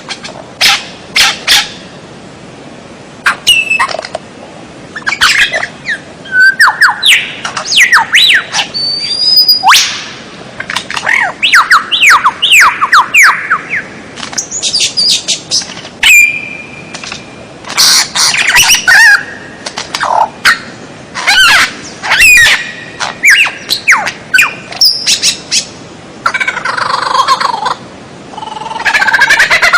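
Bird-song tutoring (masteran) recording: a loud, rapid medley of varied songbird calls, with sharp chirps, whistled notes and quick sweeping trills in short phrases separated by brief pauses, becoming a denser chatter near the end.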